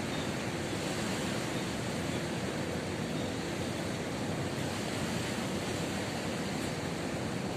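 Ocean surf breaking on a beach, a steady wash of waves.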